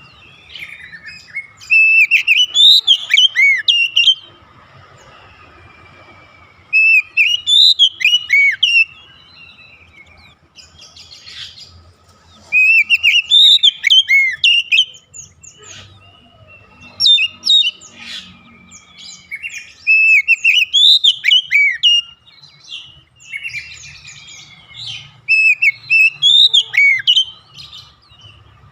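Oriental magpie-robin (kacer) singing: loud, rhythmic phrases of quick whistled notes sweeping up and down, each phrase about two seconds long, six phrases with short pauses between them.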